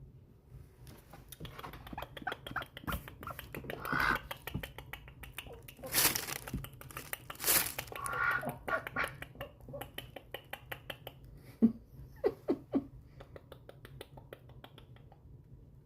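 Ducks making squeaky calls, mixed with many quick clicks and a couple of louder breathy bursts in the middle.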